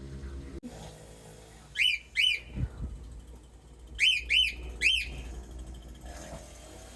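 Cockatiel giving short arched whistled chirps: two, then a pause, then three more in quick succession.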